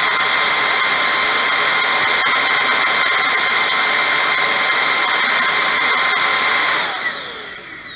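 Holife cordless stick vacuum's brushless motor running on high mode: a steady, loud high whine over rushing air, louder than a corded Hoover vacuum. About seven seconds in it is switched off and spins down with a falling whine.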